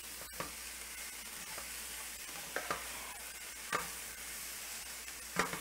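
Ground meat with peppers and onions sizzling in a hot skillet while a silicone spatula stirs it, with a few short scrapes of the spatula against the pan.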